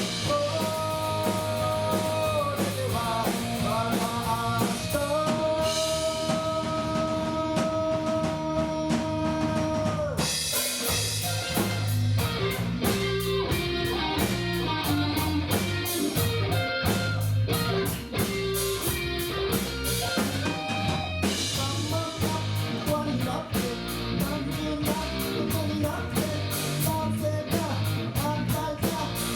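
Rock band playing live: drum kit, guitar and bass, with sustained melody notes over the first third and a fuller, cymbal-heavy section from about ten seconds in.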